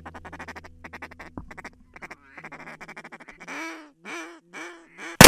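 Ducks quacking: a fast run of chattering calls, then four separate loud quacks. Right at the end comes a sharp, very loud shotgun blast.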